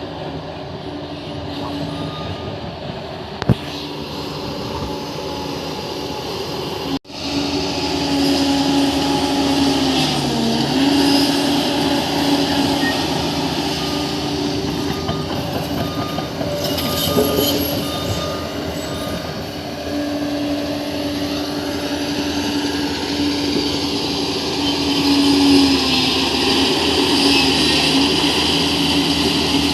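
Crawler bulldozer working: diesel engine running steadily under load, with squealing and clattering from the steel tracks, and the engine note dipping briefly now and then. A short break in the sound about a quarter of the way in, and faint short beeps repeating later on.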